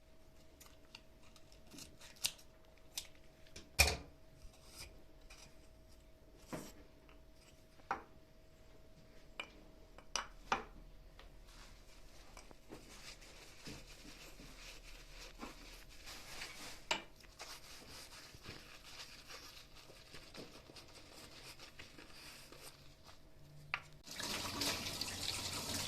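Kitchen cleaning sounds: scattered clicks and knocks of items being handled, over a faint steady hum. Water running from a tap, soft in the middle stretch and a louder steady rush near the end.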